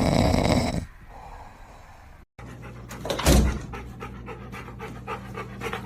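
A dog panting fast in short, even breaths, with one louder burst soon after the panting starts. Before it, an unidentified loud noisy sound stops abruptly about a second in.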